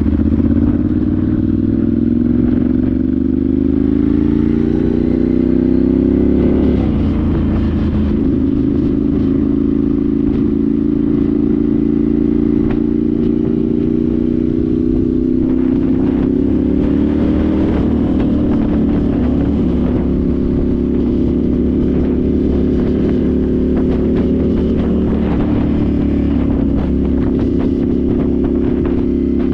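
Ducati Monster 796's air-cooled L-twin through twin Akrapovic silencers, on the move: the engine note climbs under acceleration for about seven seconds, drops with an upshift, then runs at a fairly steady cruise with small rises and dips in pitch.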